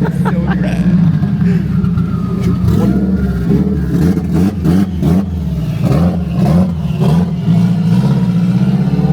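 A car engine running with a steady, deep drone, its pitch wavering up and down in the middle as the revs change, with voices mixed in.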